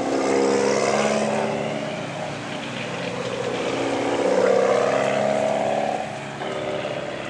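Car engines running as cars drive past at low speed. The engine drone swells and fades twice, loudest about a second in and again about four and a half seconds in.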